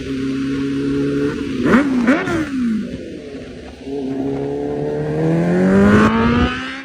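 Sport motorcycle engine running at a steady note, revved sharply twice about two seconds in, then accelerating with a long rising pitch that cuts off suddenly at the end.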